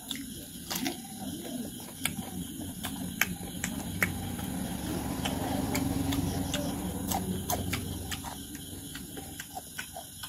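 Close-miked eating sounds: chewing a mouthful of raw cucumber and hand-fed rice, heard as a string of sharp, irregular clicks and smacks, with a low murmuring hum around the middle.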